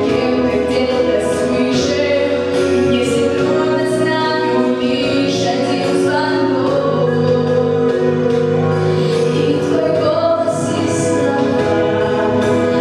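A girl singing a song with musical accompaniment, holding long sustained notes.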